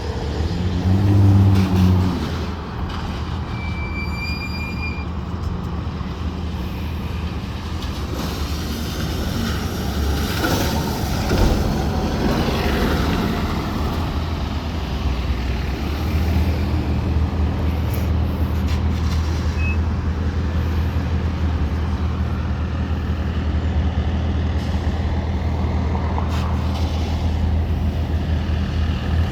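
Heavy diesel vehicle engine idling steadily, with a short high beep about four seconds in.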